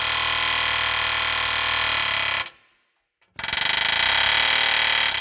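Pneumatic air hammer with a chisel bit hammering rapidly against a steel frame rivet head on an M35A2 truck frame, shearing the head off. One loud, fast rattling run stops about halfway through, and after roughly a second's pause a second run starts.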